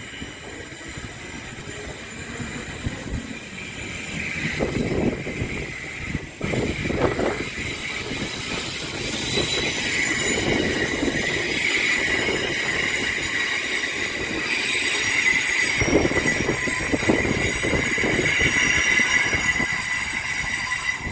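Passenger train running at a station platform, its wheels giving a steady high-pitched squeal. The squeal grows louder from about four seconds in and is mixed with occasional low knocks from the running gear.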